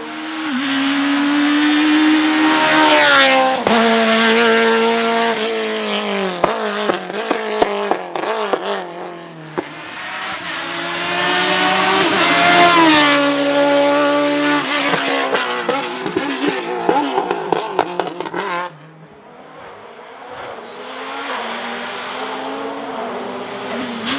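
Hillclimb race car engine at full throttle, climbing in pitch through the gears, then falling on the brakes and downshifts with popping exhaust crackles. It accelerates hard again, and its sound drops away abruptly near the end. A fainter engine then revs up again, as the car is heard further up the course.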